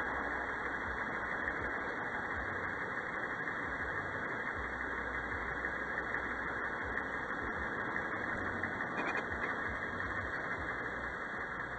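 Truck engine idling steadily while the vehicle stands still, with a faint tick about nine seconds in.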